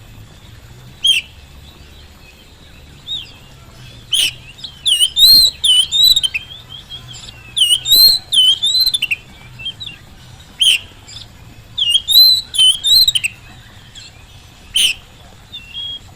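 Oriental magpie-robin (kacer) in full song: loud, varied whistled phrases of quick rising and falling notes, coming in bursts with short pauses between.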